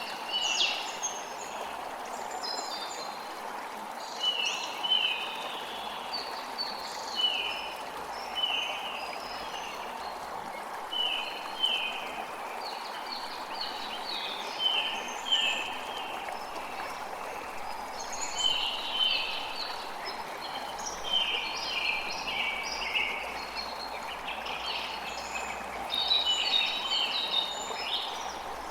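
Creek water running steadily, with birds repeatedly giving short, sharp chirping calls over it.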